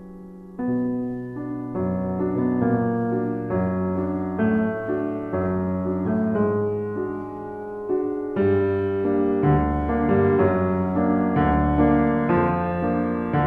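Slow solo piano music, notes struck about once a second and left to ring over each other, growing fuller about half a second in.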